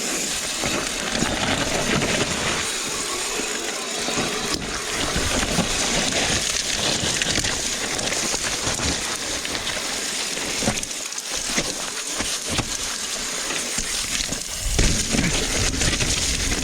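Mountain bike rolling down a wet dirt trail: a steady rush of tyre and riding noise, with scattered knocks and rattles from the bike over the ground.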